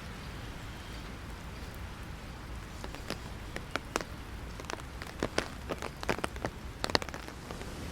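Rain falling on an umbrella: a steady hiss of rain with irregular sharp drops striking the umbrella canopy, starting a few seconds in and loudest near the end.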